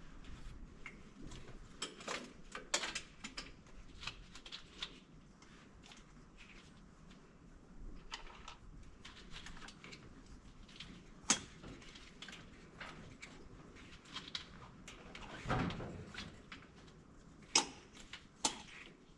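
Scattered light clicks and knocks of tools and parts being handled, irregular, with a duller knock about three-quarters of the way in and two sharper clicks near the end.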